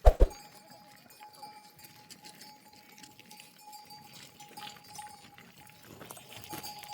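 Flock of sheep and goats, faint sounds from the animals, after a single sharp knock right at the start. A faint steady high tone runs underneath.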